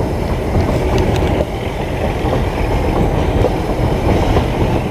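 Narrow-gauge train running: a steady rumble of wheels on rail with scattered light clicks and knocks.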